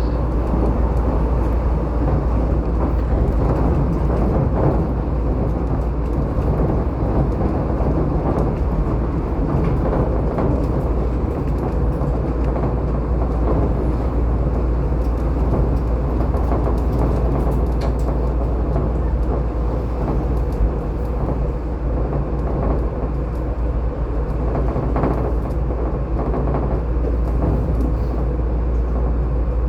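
Inside a Shonan Monorail car, a suspended monorail on rubber tyres, running between stations: a steady rumbling run noise with a strong low hum.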